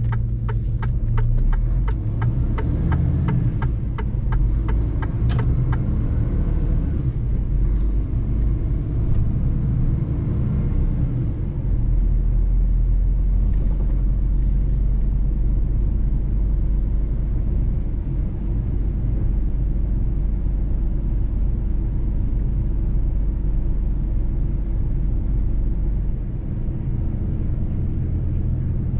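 Mercedes-Benz truck's diesel engine running steadily while driving, a low rumble. For about the first five seconds there is a run of regular ticks, about three a second.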